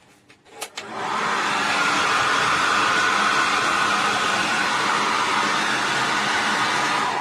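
Handheld 1800 W ionic hair dryer: a couple of clicks, then it starts up about a second in and blows steadily with a loud, even rush of air, easing off at the very end.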